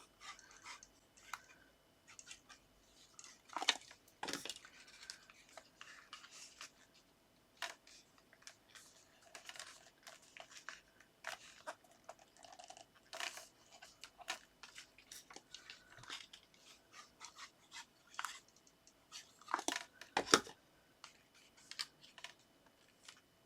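Paper and card being handled as strips are glued onto a card base: soft rustling and crackling with scattered light taps, and a few louder knocks about four seconds in and again near twenty seconds.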